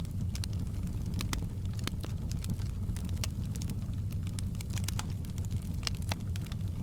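Fireplace crackling: many irregular sharp pops and snaps over a steady low rumble.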